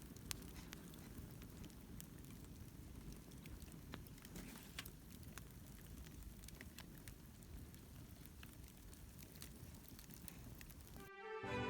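Wood fire crackling faintly, with irregular sharp pops and snaps over a low rumble. Music begins near the end.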